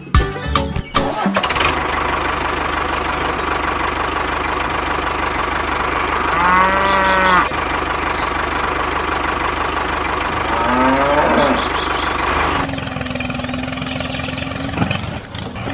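A small motor running steadily, with two drawn-out calls: one level, about six seconds in, and one rising, about ten seconds in. Near the end the running sound changes to a steadier, lower hum.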